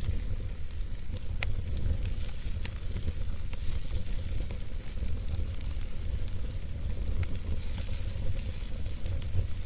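Wood fire burning in a fireplace: continuous crackling with scattered sharp pops over a low rumble of the flames.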